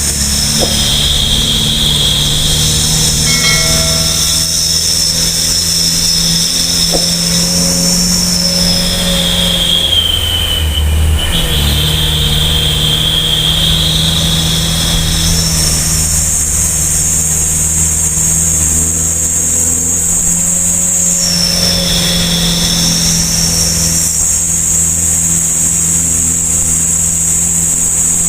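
Mitsubishi Fuso Canter dump truck's diesel engine labouring under a heavy load up a climb, its exhaust running loud and steady. A high whine sits over the engine drone and shifts in pitch a few times.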